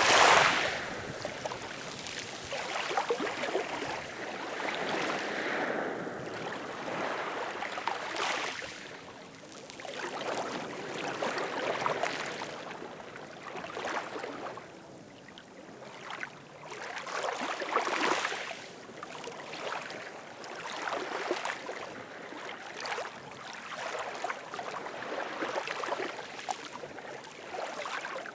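Ocean waves washing in and drawing back, a rushing hiss that swells and fades every few seconds; the loudest surge comes right at the start.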